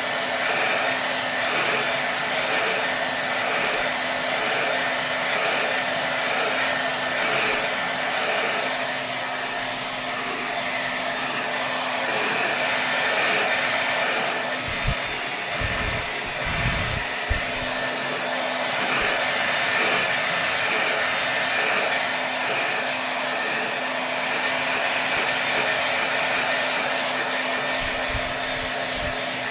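Hair dryer blowing steadily at full power, an even rush of air over a steady motor hum. A few short low bumps come about halfway through.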